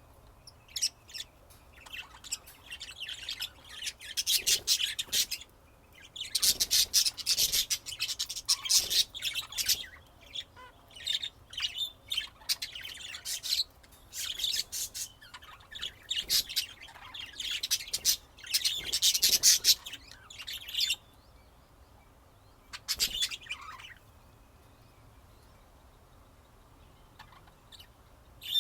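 Budgerigars chattering and chirping in quick, busy spells of a few seconds each, with short pauses between them, going quiet for a few seconds near the end.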